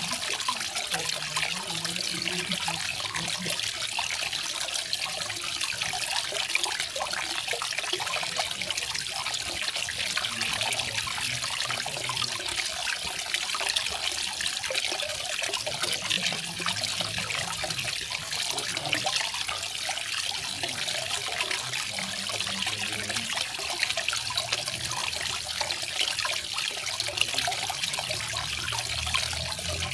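Garden waterfall: water falling and splashing steadily, an even rushing hiss with faint low gurgles now and then.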